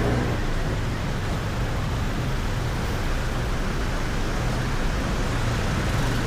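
Steady street traffic noise, a continuous hiss with a low rumble of passing vehicles.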